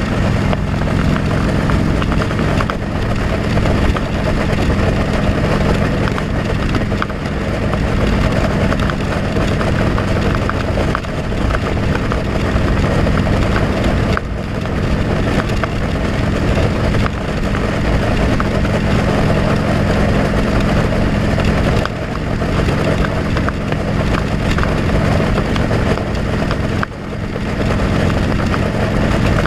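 Motorcycle engine running at a steady speed under heavy wind rush on a helmet-mounted action camera, dipping briefly a few times.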